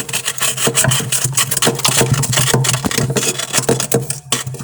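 A steady low mechanical hum with dense, irregular clicking and rattling over it.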